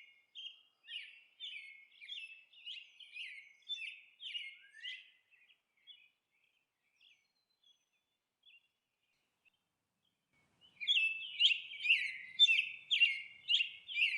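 Bird chirping: quick short chirps, about three a second, then a pause of several seconds. Louder chirping resumes near the end.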